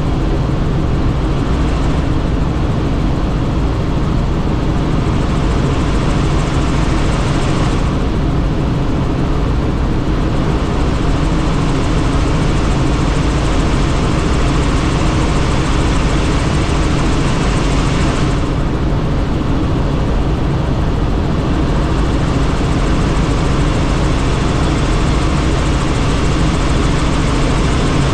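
Helicopter in flight heard from inside the doors-off cabin: a steady rotor and engine drone under rushing wind that eases and swells a few times.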